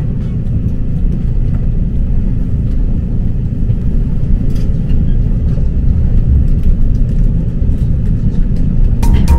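Steady low rumble of a Taiwan Railways (TRA) train running along the track, heard from inside the carriage, with a few faint clicks. Music comes in near the end.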